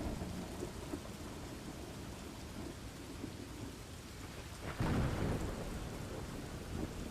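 Thunderstorm: rain falling steadily with low rumbling thunder, and a louder roll of thunder about five seconds in.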